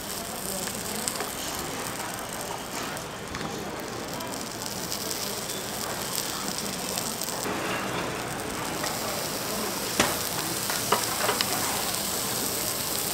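Bungeoppang batter sizzling in hot fish-shaped molds, a steady hiss, with a few sharp knocks near the end.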